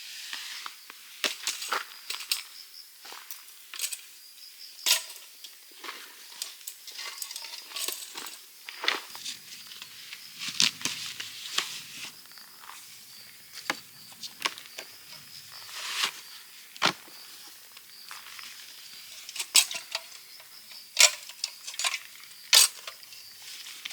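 Irregular clinks and knocks of camping gear being handled, with several sharper knocks in the second half, over a steady high insect trill.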